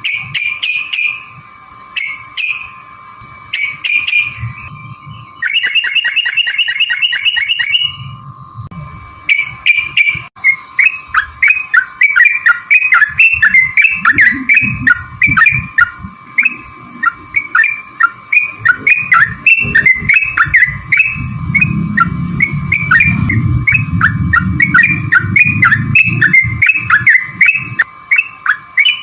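Yellow-vented bulbul (trucukan) song played as a lure. Short bubbly whistled phrases come in bursts, with a rapid trilled run a few seconds in, then a fast, unbroken stream of chirping phrases from about ten seconds on. Steady thin tones hum underneath, and a low rumble comes in about two-thirds of the way through.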